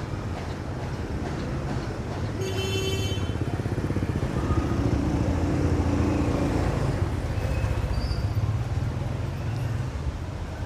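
Motorbike engines running past, swelling to their loudest in the middle. A brief high-pitched tone sounds about two and a half seconds in.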